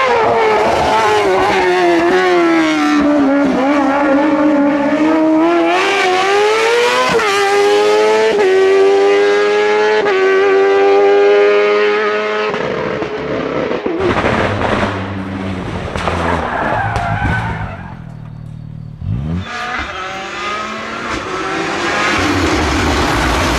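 Rally car engine at full attack: the note falls, then climbs again with quick upshifts and holds high. About halfway through it gives way to a noisier, quieter stretch, then grows louder again near the end.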